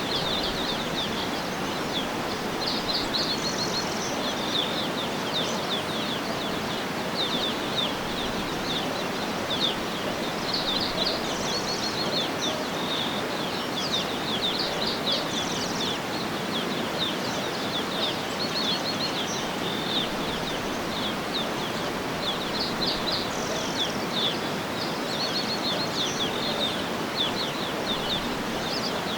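Songbirds chirping in quick runs of high notes, again and again, over a steady background hiss of outdoor ambience.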